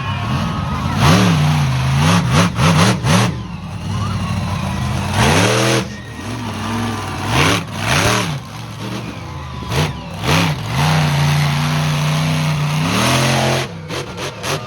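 Monster truck engine revving hard, its pitch climbing and falling in repeated blips, held high for a couple of seconds near the end and then dropping. Short, sharp blasts of noise break in several times.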